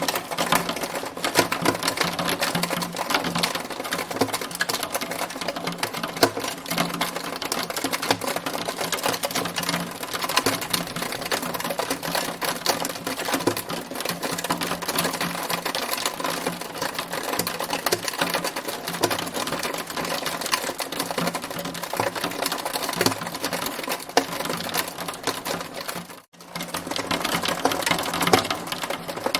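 Hailstones pelting a hard surface in a dense, continuous rapid clatter over a low steady hum. The sound drops out sharply for a split second about 26 seconds in, then resumes.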